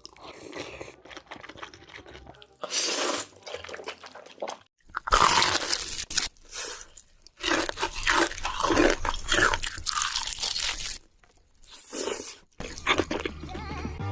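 Close-miked crunching and chewing of crisp food, in several irregular bouts with a few short silent breaks between them.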